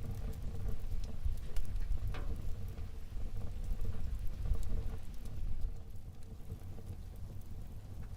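Wood fire burning in a fireplace: irregular crackling and sharp little pops over a low rumble of the flames, with one louder pop about two seconds in. The rumble eases a little after about six seconds.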